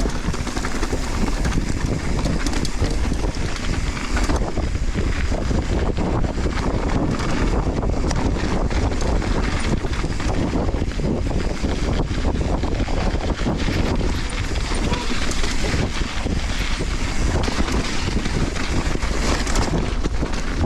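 Mountain bike descending dirt singletrack at speed: wind buffeting the GoPro microphone, with tyres running over the volcanic soil and the bike rattling and knocking over bumps throughout.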